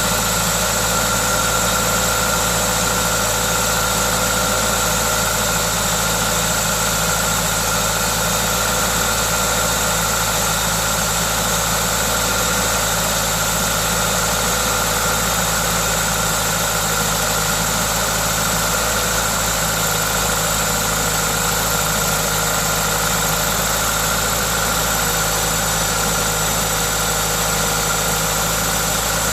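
Toyota 2ZZ-GE 1.8-litre four-cylinder engine running steadily, with a steady hiss from its aftermarket induction kit. This is the engine's normal running noise.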